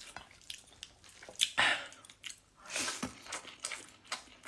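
A person chewing a mouthful of rice eaten by hand, with wet mouth sounds and a few short, sharp noisy sounds; the loudest comes about a second and a half in.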